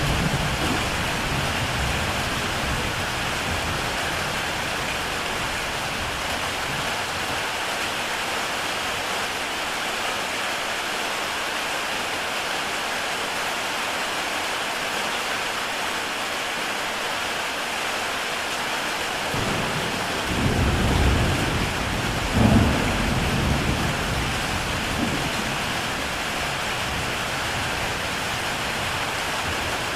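Heavy rain falling on a tile roof, a steady hiss. Low rumbles of thunder fade out just after the start and come again about twenty seconds in.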